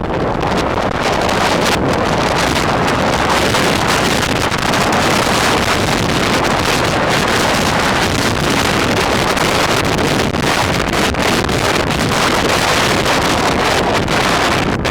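Strong wind buffeting the microphone in a steady, loud rush, from riding an electric scooter into a headwind.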